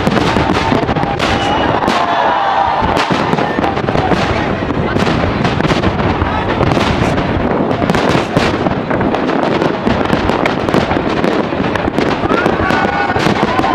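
Aerial fireworks display: a rapid, unbroken barrage of shell bursts and crackling.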